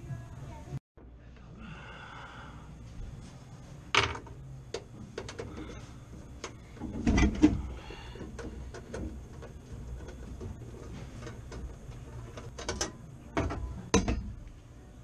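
Irregular clicks and knocks of hard objects being handled, with a denser clatter about seven seconds in and a few sharp knocks near the end, over a low steady hum.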